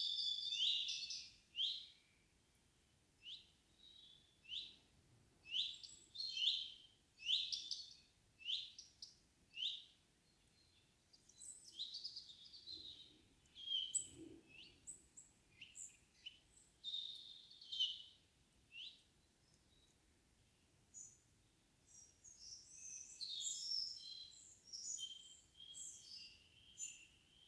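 Small songbirds singing. There is a dense run of warbling at the start, then a string of short high notes about two a second, varied phrases, and another busy burst of chirping near the end.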